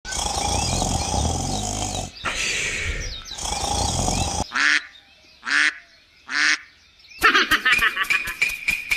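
Dense noisy sound with chirps, then three short pitched animal calls about a second apart; about seven seconds in, a fast rhythmic clicking with a steady high tone begins.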